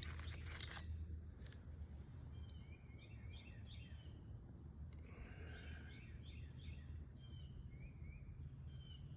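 Birds chirping in short, repeated chirps over a low steady rumble; a rustling noise stops about a second in.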